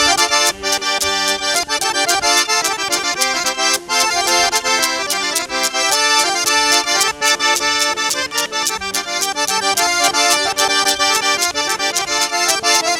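Traditional folk dance music led by an accordion, with a fast, steady drumbeat.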